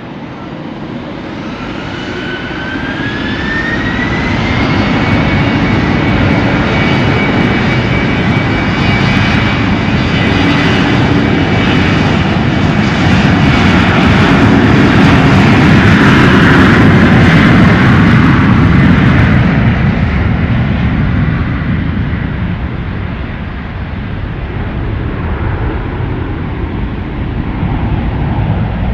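Airliner engines spooling up with a rising whine that then holds steady. The engine noise grows louder to a peak about two-thirds of the way through, then fades as the aircraft moves away, typical of a takeoff run.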